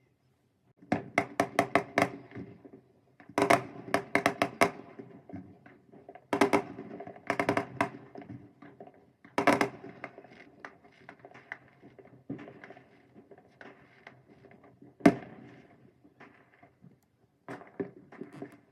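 Fireworks going off in quick volleys of sharp crackling bangs, several a second. Fainter scattered pops follow, with one single loud bang about two-thirds of the way in.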